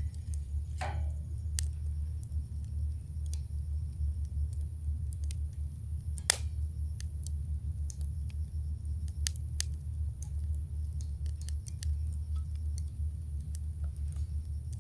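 Wood campfire burning, with scattered sharp crackles and pops and one louder pop about six seconds in, over a steady low rumble.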